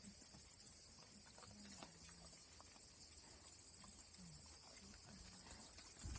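Faint, short, low-pitched animal calls, a few of them, over a steady high hiss.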